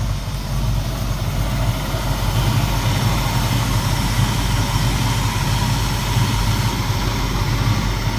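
A 1967 Ford Mustang's 289 V8 idling steadily, getting a little louder about two seconds in.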